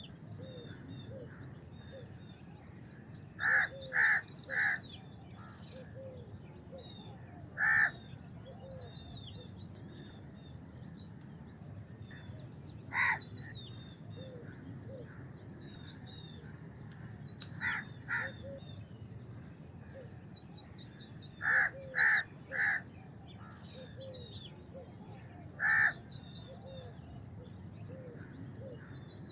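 House crows cawing in scattered short bouts: runs of three harsh caws, and single or paired caws in between. Many small birds twitter steadily at a high pitch underneath.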